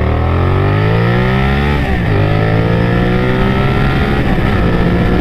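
Honda VTR1000F Firestorm's V-twin engine under hard acceleration, revs climbing steadily, with a gear change about two seconds in and another near four seconds, pulling up through the gears.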